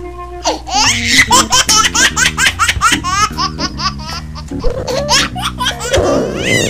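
High-pitched laughter in quick repeated bursts, several a second, over background music.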